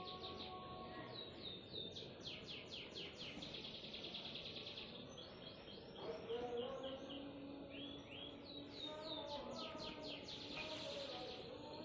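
A small bird calling in rapid trills of short, high, falling chirps, repeated in several bursts.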